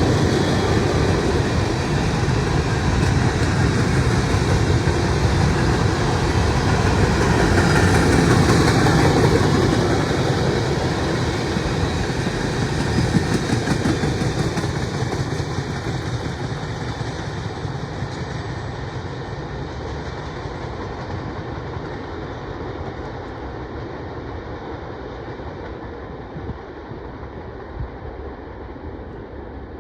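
Norfolk Southern mixed freight train's cars rolling past on the rails, a steady rumble and clatter. The sound peaks about a third of the way in, then fades and grows duller as the train draws away.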